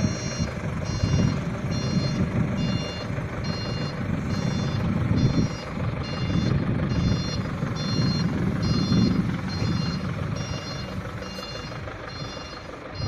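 Diesel forklift engine running, its low rumble rising and falling as it works, with the forklift's warning beeper sounding steadily at about three beeps every two seconds.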